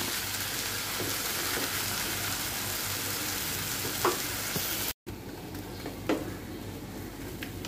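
Grated taro with coconut frying in a pan: a steady sizzle, with a wooden spatula stirring through it and a few light knocks. About five seconds in there is a brief gap, and the sizzle is quieter afterwards.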